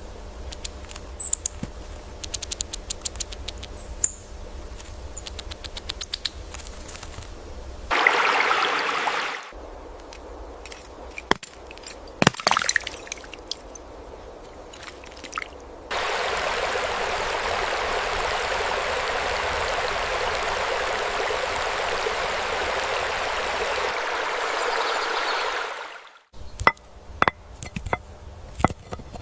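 Flowing water in separate cut segments: a short rush of water about eight seconds in, then a longer steady rush of water, like a stream, from about sixteen to twenty-six seconds, ending abruptly. Scattered small clicks and ticks fill the quieter stretches between.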